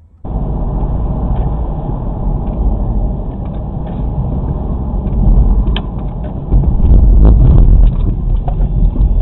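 Car driving, heard from inside the cabin through a dashcam microphone: loud engine and road rumble with scattered clicks and rattles. It starts abruptly a quarter second in and swells louder for a second or two past the middle.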